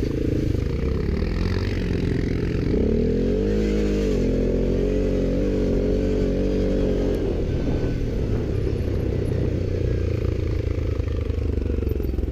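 ATV engine running, revving up about three seconds in, holding higher revs for several seconds, then easing back off.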